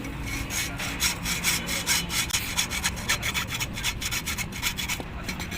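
Rapid back-and-forth scraping strokes of a hand tool, like sawing or filing, several strokes a second, thinning out near the end.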